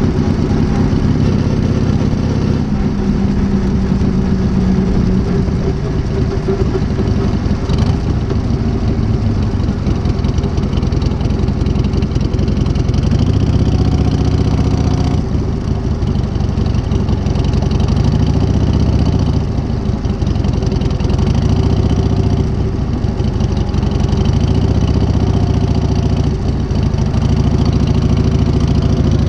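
1978 Harley-Davidson Shovelhead V-twin engine with a new S&S carburettor running at idle, its speed swelling up and settling back a little every few seconds.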